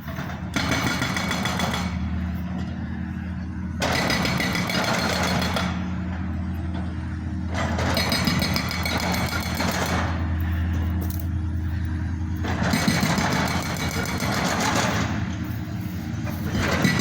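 Road buster pavement breaker hammering at roadwork in bursts of about two seconds, five times, with short pauses between. A steady low engine drone runs underneath throughout.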